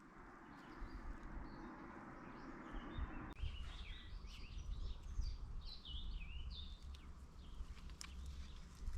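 A songbird singing a quick warbling phrase of gliding, varied notes, starting about three seconds in, over a steady rushing background noise and a low rumble.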